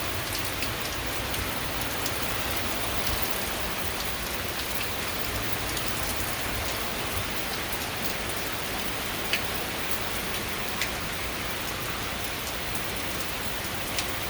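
Heavy rain pouring down steadily in an intense downpour, an even hiss with a few sharper taps of single drops striking close by.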